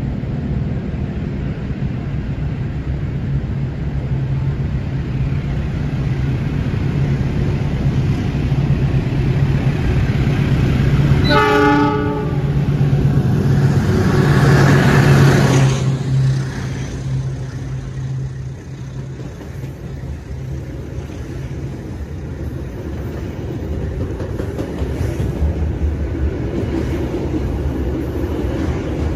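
Diesel locomotive of a passenger train approaching with its engine running, giving one short horn blast about a third of the way in. The engine is loudest as the locomotive passes, then drops away to the sound of carriages rolling by. An electric commuter train is passing near the end.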